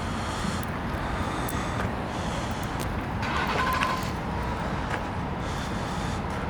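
Road traffic: the steady noise of vehicles passing on a busy avenue, with a brief higher tone rising above it about three seconds in.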